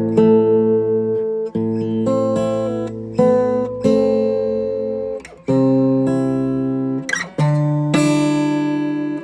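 Acoustic guitar music: strummed chords, each ringing out and fading before the next, changing every second or two.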